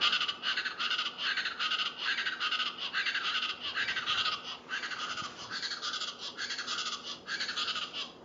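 East Brazilian chachalaca calling: a loud run of harsh, rasping notes repeated about twice a second, which stops near the end.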